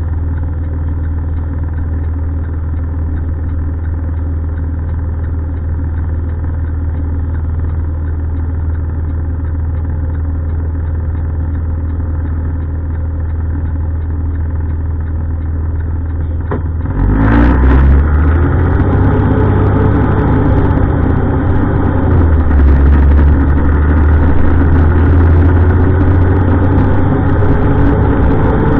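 Heavy diesel garbage truck engines running steadily at low idle. About two-thirds of the way through there is a sharp burst of noise, and then a truck engine gets louder and revs, its pitch rising and falling as it pulls away.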